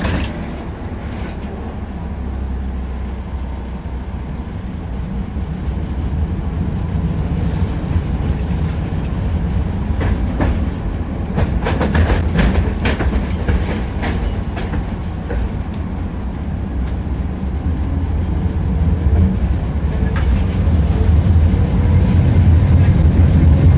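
Tram running along the rails, heard from inside the passenger car: a steady low rumble with the wheels clacking over rail joints, a run of clacks about halfway through, and growing louder near the end.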